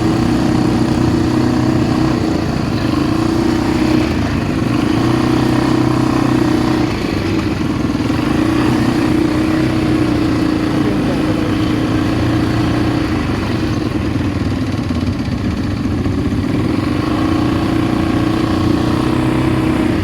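ATV engine running at a fairly steady speed while being ridden, easing off slightly about seven seconds in.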